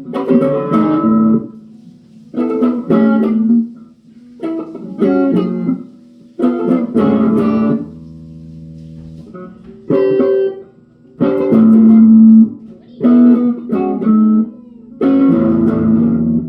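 Guitar played in short strummed bursts of chords, each about a second long with brief pauses between.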